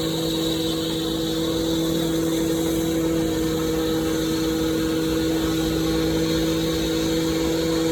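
An engine running at a steady speed, giving a constant even hum over background noise.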